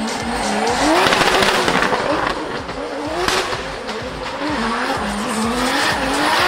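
Drift car engine revving up and down hard as the car slides, with tyres squealing and screeching. The tyre noise swells about a second in and again near the end.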